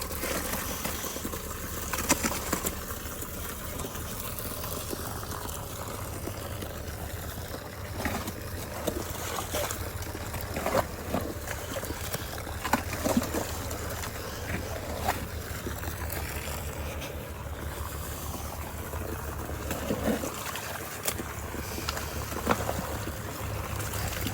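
Excavator engine running steadily at a distance, with scattered scrapes and knocks from the bucket digging a trench.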